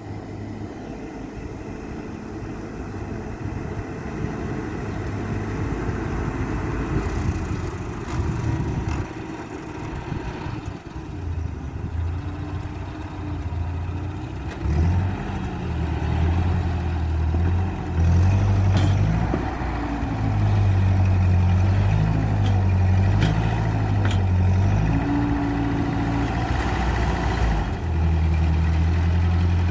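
Ford 8N tractor's four-cylinder gasoline engine running under load while working a front-end loader, its speed rising and falling, louder in the second half. A few sharp knocks are heard over it.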